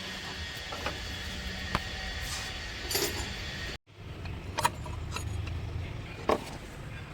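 Volkswagen Polo engine running steadily, with a few sharp clicks scattered through it. The sound drops out for a split second a little under four seconds in, then resumes.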